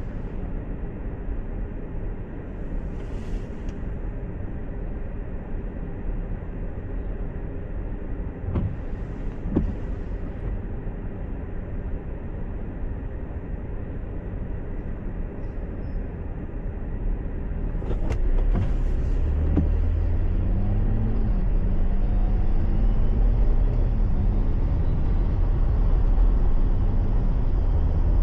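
Car driving, heard from inside the cabin: a steady low rumble of engine and road noise. About 18 seconds in it gets louder, and a low engine drone climbs and dips in pitch.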